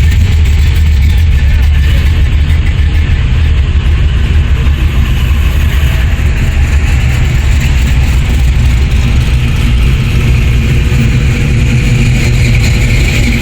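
Car engines running in a slow car parade, a loud, steady deep rumble.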